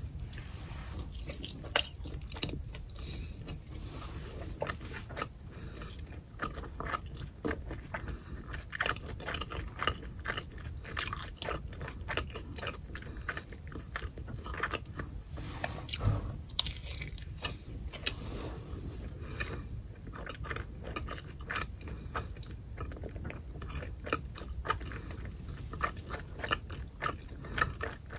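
Close-up chewing and biting of a crispy pan-fried scallion pancake: irregular crisp clicks and mouth smacks, a few of them louder.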